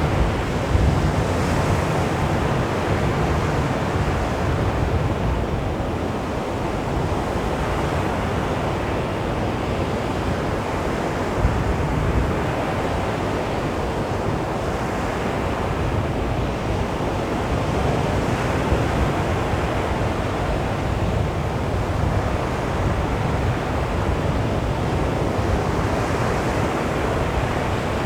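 Sea waves breaking and washing onto a beach, a continuous surf wash that swells and eases every few seconds, with some wind noise.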